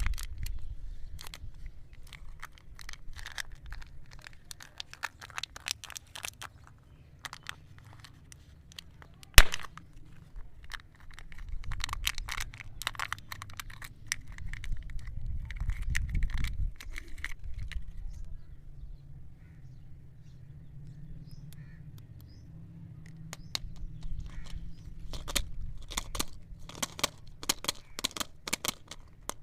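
Wrappers on chocolate eggs and candies being handled and unwrapped, with irregular crackling and clicking throughout. One sharp, loud click or knock comes about nine seconds in.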